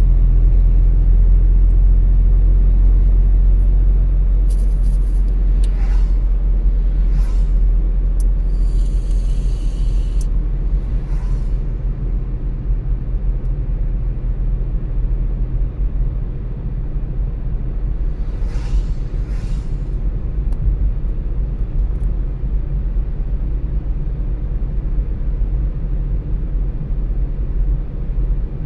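Car driving on the road: a steady low rumble of tyre and engine noise. It eases slightly about four seconds in. Several brief swishes come through between about five and eleven seconds in, with two more a little past halfway.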